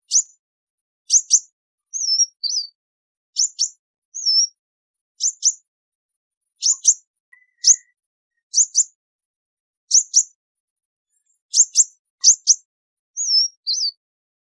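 Sunbird calling its flock: short, high, sharp call notes, often in quick pairs, repeated about once a second, mixed with a few brief twisting two-part calls.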